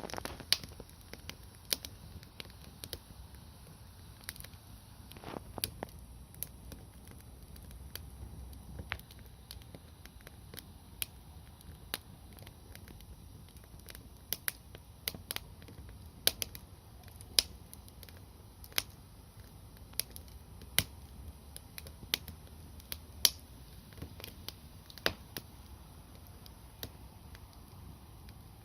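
Campfire of large conifer logs crackling, with sharp pops at irregular intervals, a few every second or two, over a faint low rumble.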